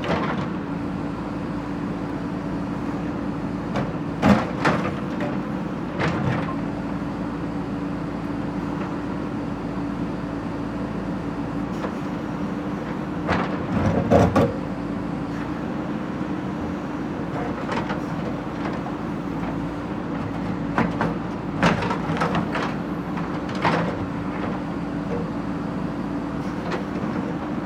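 Backhoe loader's diesel engine running steadily, with scattered metallic clanks and knocks from the machine at work, a cluster of them about halfway through.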